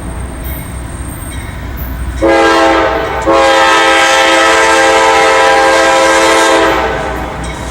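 Locomotive air horn sounding a short blast about two seconds in, then a long blast of about three and a half seconds, over the steady low rumble of a passing train.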